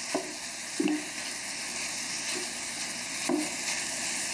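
Breakfast sausage and finely diced onion sizzling steadily in hot canola oil in a skillet while a spatula breaks the sausage into crumbles, with a few short scrapes and taps of the spatula against the pan.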